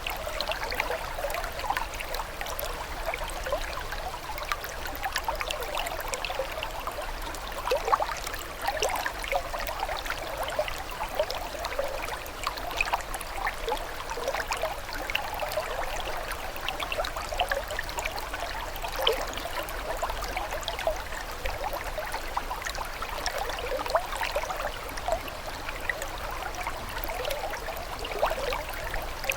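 Water trickling and burbling steadily, with many small splashes and gurgles.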